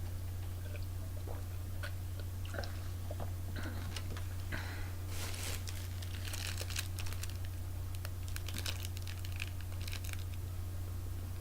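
Chewing and crunching a hard chocolate candy close to the microphone, with small scattered crackles and clicks, over a steady low electrical hum.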